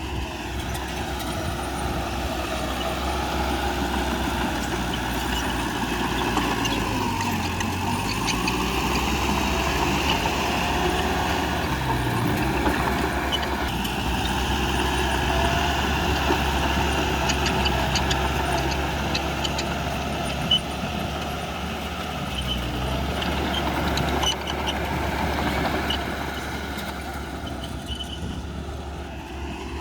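Bulldozer's diesel engine running under working load, its pitch sagging and recovering several times as it pushes, with scattered metallic clinks.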